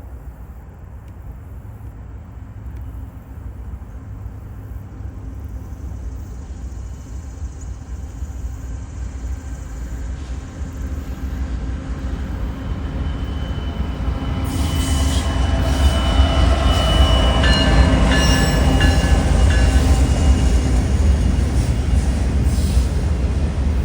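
CSX freight train with a single diesel locomotive approaching and passing. The low engine drone grows steadily louder through the first half. Then wheel and rail noise takes over, with high steady squealing tones and clicks, loudest in the second half.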